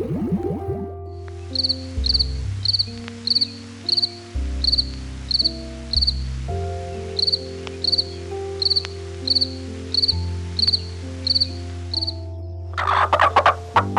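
Cricket chirping in short, evenly spaced pulses about twice a second, over background music. A loud harsh call breaks in near the end.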